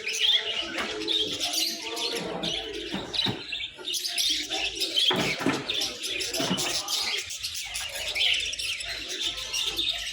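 Many caged birds chirping and twittering over one another without pause, with low cooing mixed in.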